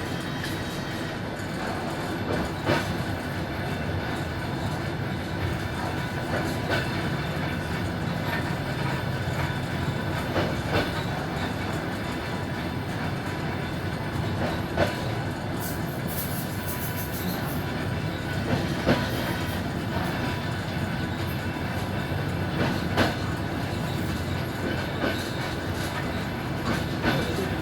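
Suburban passenger train running along the line, heard from aboard: a steady rumble of wheels on rail with a sharp clack about every four seconds as the wheels cross rail joints.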